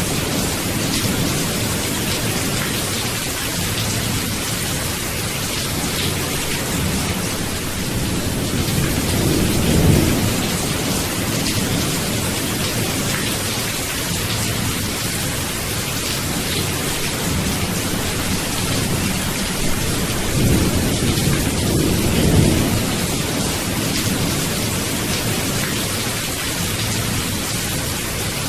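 Steady rain falling in a thunderstorm, with low rolls of thunder that swell and fade several times, most strongly about ten seconds in and again a little past twenty seconds.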